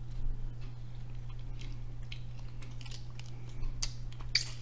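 Close-up chewing of crab meat, with small scattered clicks and crackles of crab shell being picked apart; the loudest crackle comes near the end. A steady low hum runs underneath.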